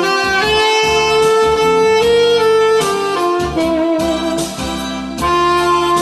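Tenor saxophone playing a slow, lyrical melody in long held notes, with vibrato on a sustained note midway through.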